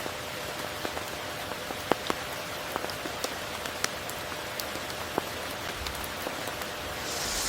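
Steady tropical rain falling, an even hiss with many separate drops ticking on nearby surfaces, and a brief swell of louder hiss at the very end.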